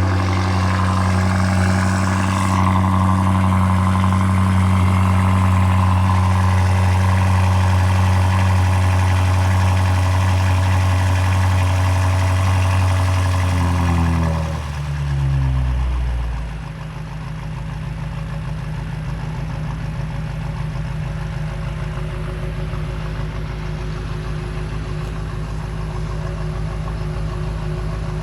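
BMW M5 F90's twin-turbo V8, with catless downpipes and the stock exhaust in quiet mode, running at a raised cold-start idle. About halfway through the idle drops in steps, then it settles to a lower, quieter steady idle.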